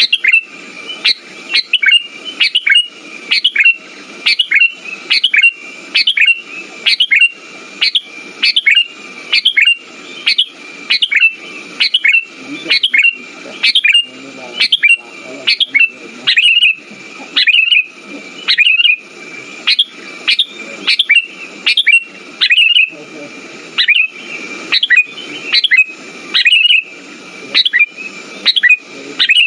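Sooty-headed bulbul (kutilang) calling: short, sharp, loud chirps repeated steadily about once a second, a lure recording played to prompt a silent bulbul into song.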